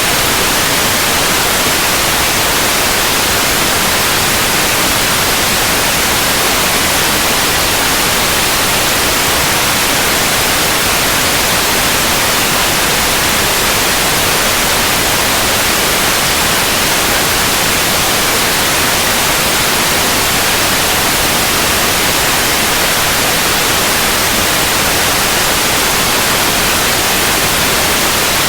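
Steady, unbroken white noise: an even hiss across the whole range, brightest in the highs, with no change in level.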